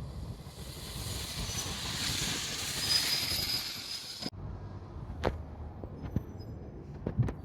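Train noise: a rising hiss of wheels and air with a faint high squeal, which stops abruptly about four seconds in. After it come a few sharp clicks and knocks over a low rumble.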